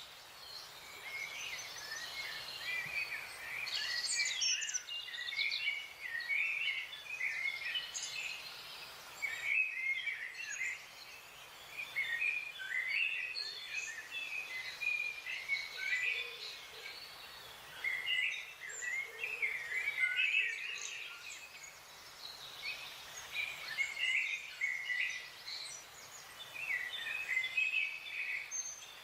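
Wild forest birds singing and chirping: many short, quick calls overlapping one another almost without a break, over a faint steady hiss.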